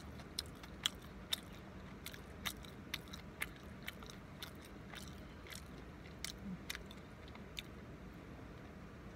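A person chewing a mouthful of burger: a run of sharp, wet mouth clicks and smacks, about two a second, thinning out near the end, over a low steady hum.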